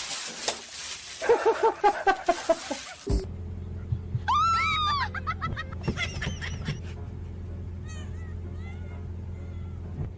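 Pet animal calls. First a quick run of short calls, then, after a sudden change, a few rising-and-falling calls over a steady hum.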